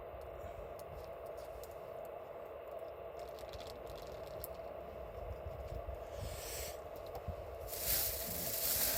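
Wood campfire crackling with faint clicks under a steady hiss, with louder rustling about six seconds in and again near the end.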